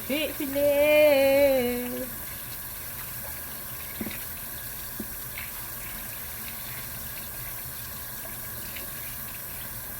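Tap water running steadily into a sink, with two light knocks about four and five seconds in. A woman sings a short line over it at the start.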